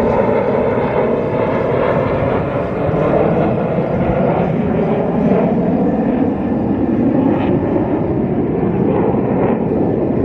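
Jet noise from a formation of US Navy F/A-18 Super Hornets flying overhead, a loud, steady rush that swells and eases a little as the jets move.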